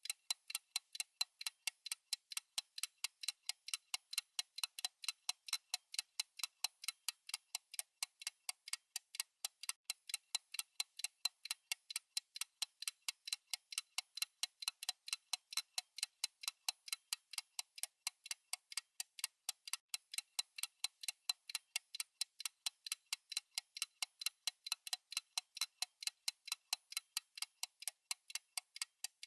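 Fast clock-ticking sound effect of a countdown timer: sharp, evenly spaced ticks, several a second, running without a break.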